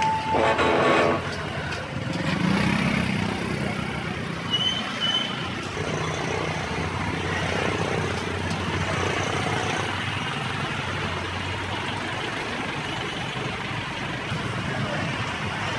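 Steady street traffic noise of passing vehicles, with a short pitched sound in the first second.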